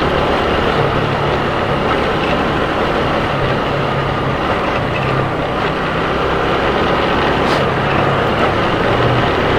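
Motorcycle engine running while riding, with steady road and wind noise, picked up by a helmet camera's external microphone.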